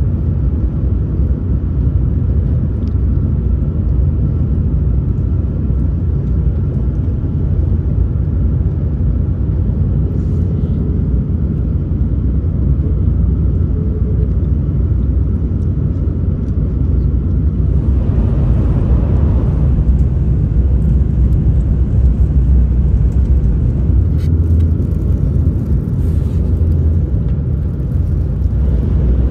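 Steady low rumble of a Shinkansen bullet train at speed, heard inside the passenger cabin. About eighteen seconds in, a rushing hiss swells for a couple of seconds.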